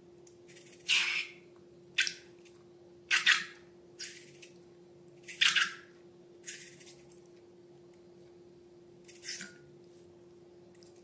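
Slime being squeezed and worked by hand, giving a series of short, wet, sticky squelches at irregular intervals: about seven over eleven seconds, the last few spaced further apart.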